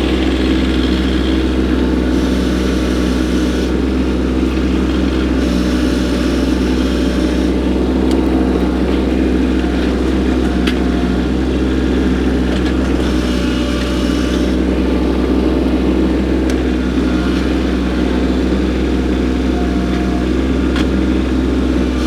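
Kubota B2601 compact tractor's three-cylinder diesel engine running steadily under load while the grapple works rocks loose. A few stretches of higher-pitched hiss and whine rise over the engine and fall away again.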